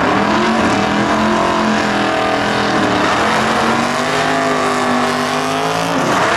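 Drag-racing muscle car engine running hard at high revs, its pitch wavering up and down and dipping just before the sound cuts off abruptly.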